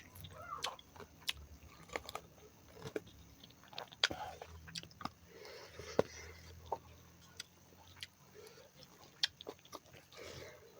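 A person eating pork leg close to the microphone: chewing and biting, with irregular sharp mouth clicks.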